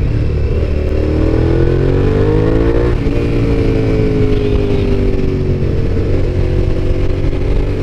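Suzuki SV650S V-twin engine heard from the saddle while riding: it accelerates with rising pitch, shifts about three seconds in, then slowly drops in pitch as the throttle eases, over steady wind rumble.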